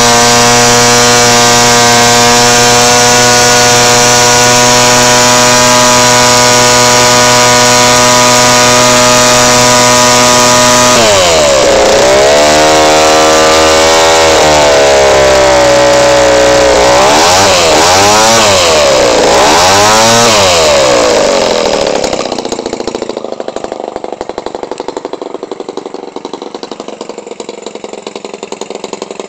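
Toro 28cc gasoline trimmer engine, converted for a radio-control airplane, running at high speed with a steady pitch. About eleven seconds in, its pitch falls and rises several times as the throttle is worked. Just after twenty seconds it drops back to a much quieter idle.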